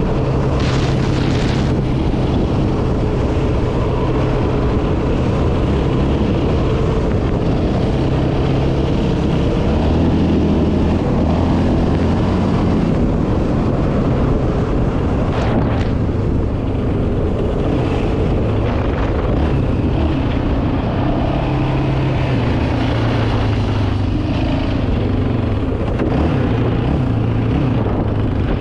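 Yamaha Raptor 700R quad's single-cylinder four-stroke engine running under way, its engine speed rising and falling as it is ridden.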